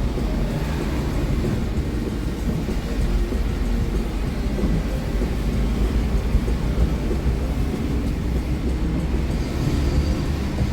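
Hino R260 bus's diesel engine and road noise heard from inside the cabin while under way: a steady deep rumble with a hiss of tyres and wind.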